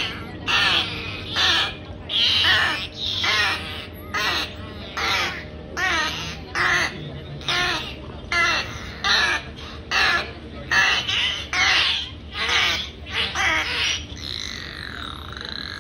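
A bird's repeated harsh cawing calls, about one or two a second, then a smoother wavering call near the end.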